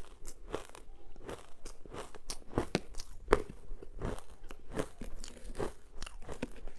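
Close-up crunching and chewing of ice: a quick, irregular run of sharp cracks and crackles as the ice is bitten and broken between the teeth.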